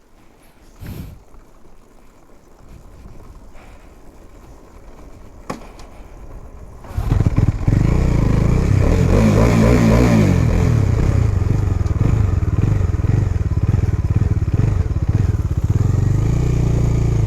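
Motorcycle engine catching and starting about seven seconds in, after a few faint knocks, then revved briefly and settling into a steady idle. It starts after a struggle that the rider puts down to a battery run down by leaving the key on.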